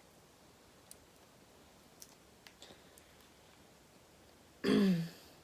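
A few faint clicks from snow crab being handled and eaten, then near the end a short, throaty vocal sound from the eater that falls in pitch.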